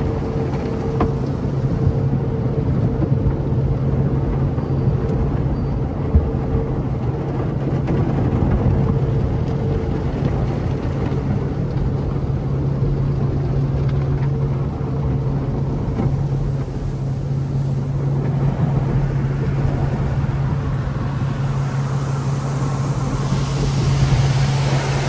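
Infiniti Q50 3.7's V6 idling with a steady low drone, heard from inside the cabin on a car wash conveyor. A hiss builds near the end.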